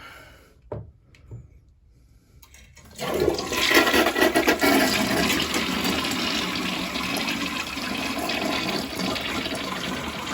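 Toilet with a newly fitted flush valve, flapper and fill valve being flushed: a few faint clicks, then about three seconds in a loud rush of water that carries on steadily. It flushes well.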